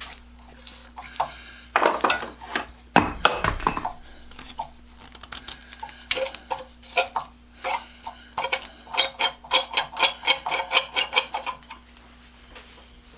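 Metal-on-metal clinks and knocks as a tool works the rusted steel through bolt of a cast-iron forge's ash gate loose. A few heavier knocks come about two to four seconds in, then a run of quick clinks at about four a second that lasts several seconds.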